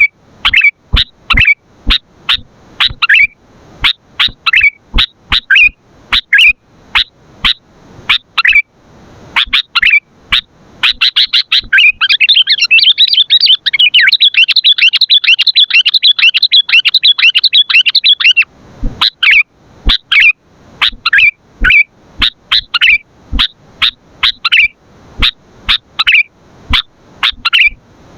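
Sooty-headed bulbul (kutilang) calling: short, sharp chirps about twice a second. Several seconds in, they break into a fast, unbroken chatter lasting about seven seconds, then return to separate chirps.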